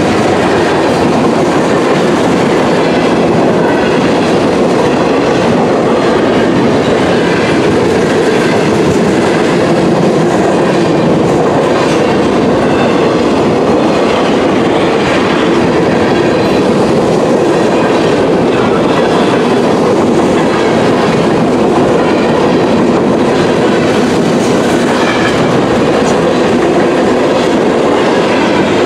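Freight train cars (tank cars, a covered hopper and a boxcar) rolling past at close range: a loud, steady noise of steel wheels running on the rails.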